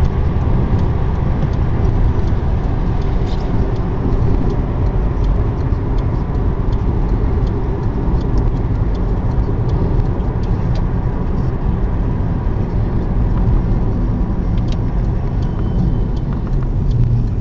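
Steady road noise heard from inside a moving car: engine and tyres running at an even speed.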